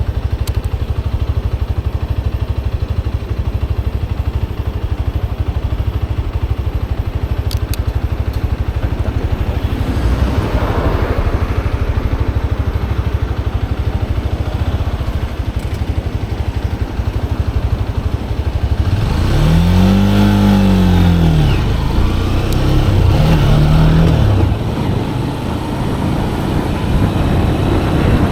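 Motorcycle engine running steadily while riding, with a constant low throb; about two-thirds through it revs up and back down in a rising-then-falling sweep, then briefly once more.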